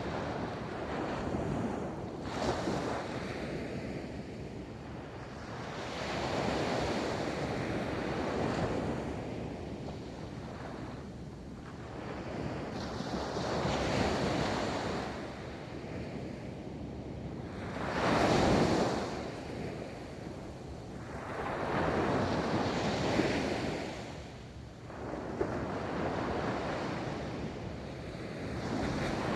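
Ocean waves rolling onto a beach, each breaking and washing up the sand in a swell of surf every few seconds; one wave a little past the middle is the loudest.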